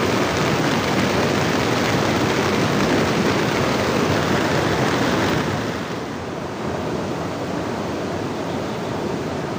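Steady rushing noise of water. About five and a half seconds in it becomes quieter and duller.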